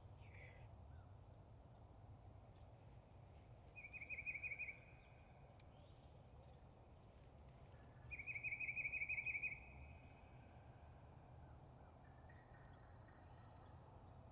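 Two short, rapid trilled bird calls, about four and eight seconds in, the second one longer, over a faint steady outdoor background.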